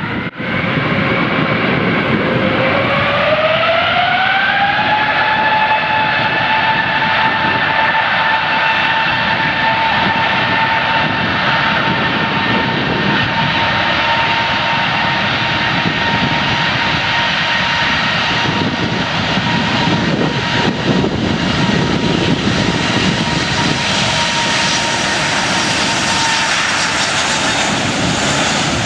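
Airbus A380's four turbofan engines spooling up to takeoff thrust: a whine that rises in pitch over a couple of seconds near the start, then holds steady over a loud, dense rushing noise. The whine fades near the end while the rushing noise continues.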